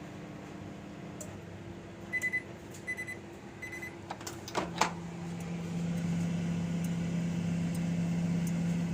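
Microwave oven humming, then three short high electronic beeps, followed by a couple of sharp clicks about halfway through, after which a lower, louder steady hum runs on.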